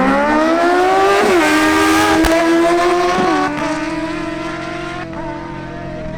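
Sport motorcycle's inline-four engine launching off the drag-strip start line at full throttle. Its pitch climbs, drops sharply at an upshift about a second and a half in, climbs again, and drops at a second upshift a little past halfway. After that the sound steadies and grows quieter as the bike pulls away.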